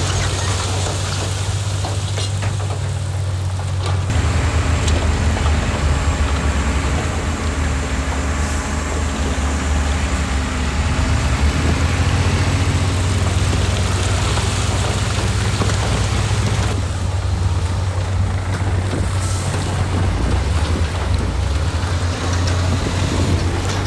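Heavy diesel engine of an earthmoving machine running loud and deep, with a noisy clatter over it. The engine note changes about four seconds in and again about two-thirds of the way through.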